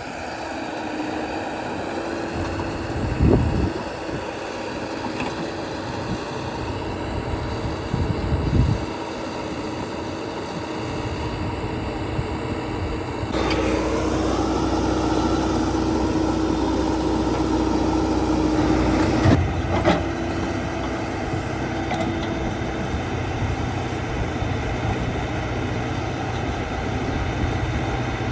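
JCB 3DX backhoe loader's diesel engine running steadily, with heavy low thumps about three and eight seconds in. About halfway through, the engine revs up and holds there for some six seconds, then drops back with another thump.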